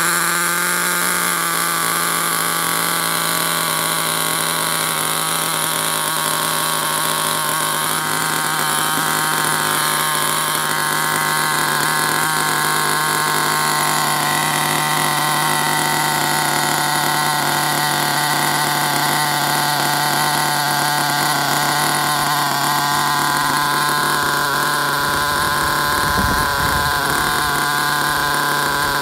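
Small 0.18 nitro engine of an HSP RC monster truck, just started, running at a steady high-pitched idle; its note steps down slightly about a second in as the throttle is brought back.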